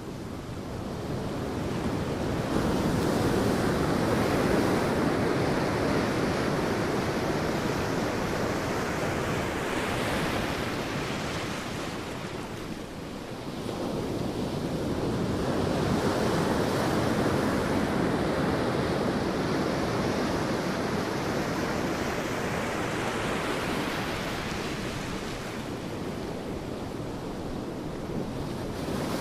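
Sea waves breaking on a beach: the surf swells and washes back twice, with a lull about halfway through.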